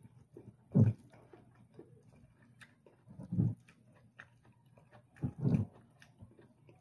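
Close-up eating by hand: chewing rice and bihon noodles with small wet mouth clicks, broken by three short, louder low mouth sounds about a second in, near the middle, and near the end.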